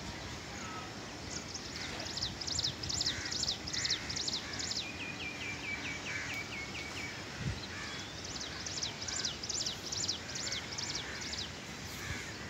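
Birds calling: runs of quick, high chirps several a second, with a fast ticking trill in the middle, over a steady outdoor hiss.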